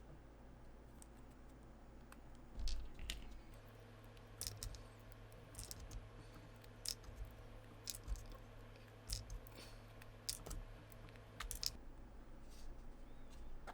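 Scattered small clicks, taps and crinkles of hand crafting work, about one every half second to second, with a faint steady low hum through the middle.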